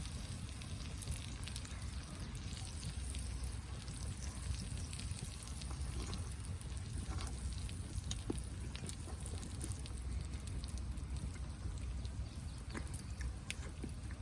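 Food frying in a pan over a camp fire, with scattered light crackles and pops over a steady low rumble.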